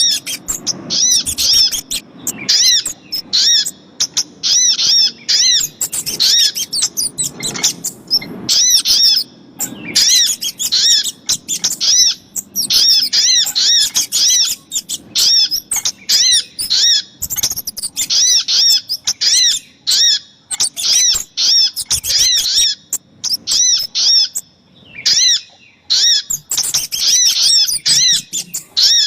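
Bird-lure recording of sogok ontong and kemade calls: rapid runs of high, arched chirps repeated many times, in bursts broken by short pauses.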